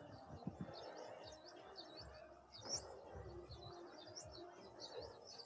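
Small birds chirping faintly, a quick run of many short high chirps.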